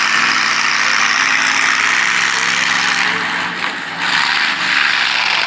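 Grim Reaper monster truck's engine running hard as it sets off on a run at a jump over cars. It keeps up a loud, steady note, easing off briefly about three seconds in.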